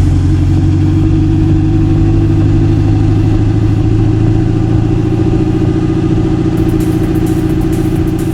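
Synthetic V8 engine sound played through add-on sound actuators on a Ford Ranger Wildtrak, running steadily throughout.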